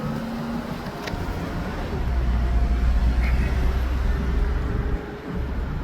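Tow truck engine running with road rumble. The low rumble swells about two seconds in and dips briefly near the end.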